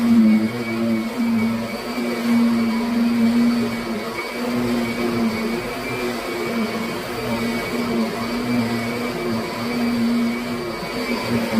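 Kirby Sentria upright vacuum cleaner running steadily. Its motor hum wavers and dips briefly every second or two.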